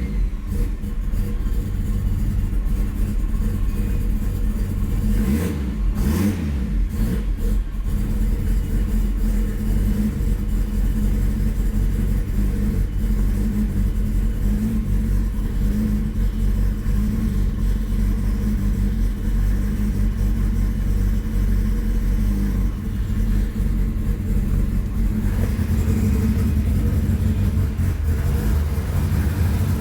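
Car engine running on E85 ethanol fuel, idling steadily during warm-up after a cold start, with a brief swing in pitch about six seconds in and a deeper, louder low note from about 25 seconds in.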